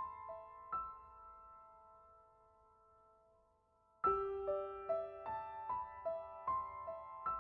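Background piano music: a gentle melody of single struck notes that die away into a lull, then a new phrase starts about four seconds in.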